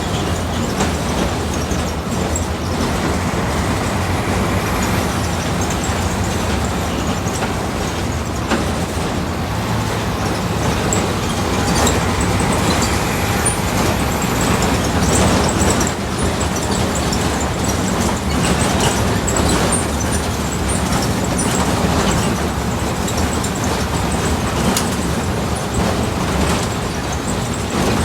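Volkswagen 17.230 OD Euro V city bus running under way: a steady engine note with road noise, and a few sharp knocks or rattles from the body.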